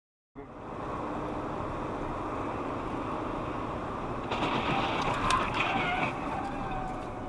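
Car on the road: steady engine and tyre noise that starts suddenly about half a second in, with a wavering whine and a few clicks joining about four seconds in.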